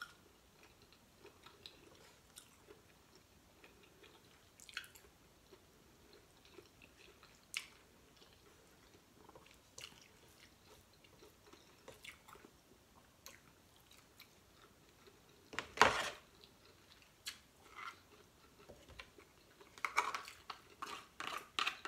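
Soft chewing of seafood with scattered faint clicks and one sharp knock about 16 s in. From about 20 s on, a spoon clicks and scrapes inside a crab shell.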